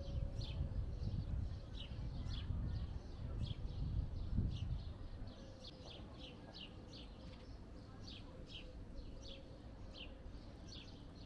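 A small bird chirping over and over, short falling chirps about two a second, over a low outdoor rumble that drops away about five seconds in.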